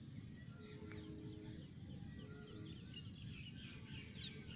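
Small birds chirping in quick series of short high calls over a low, steady background rumble of outdoor noise.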